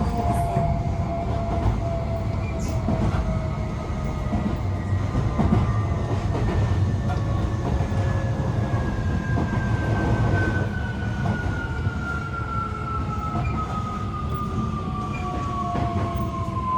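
Inside a Tokyo Metro 18000 series electric train car: steady rail and wheel rumble, with the traction motor whine falling slowly and steadily in pitch as the train slows.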